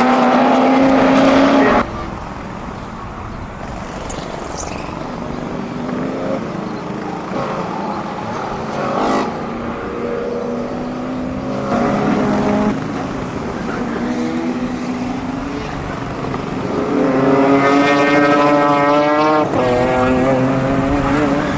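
Racing touring car engines at full throttle, their pitch rising and falling with gear changes as cars go by, across several abrupt changes of shot. The loudest is a car passing close near the end.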